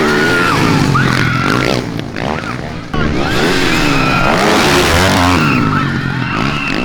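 Motocross bike engines racing, revving up and down with many overlapping rising and falling tones. The sound dips briefly and comes back abruptly a little under three seconds in.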